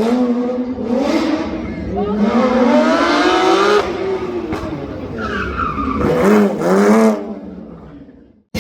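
Rally car engine revving hard, its pitch climbing and dropping with each gear change, with a quick run of shifts near the end before the sound fades away.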